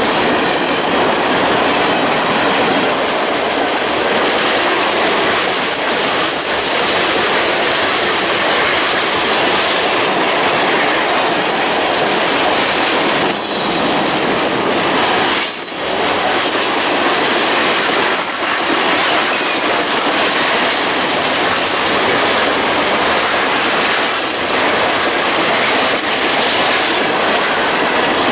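Train cars rolling past on the rails: a loud, steady rumble and rush of wheels on track, with brief high wheel squeals now and then.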